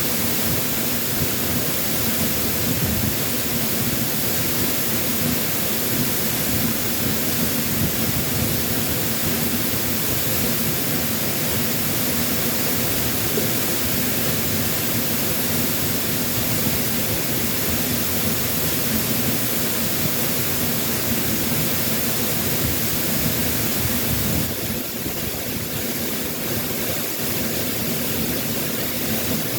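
Waterfall after a typhoon: a loud, steady rush of falling water, easing slightly about five seconds before the end.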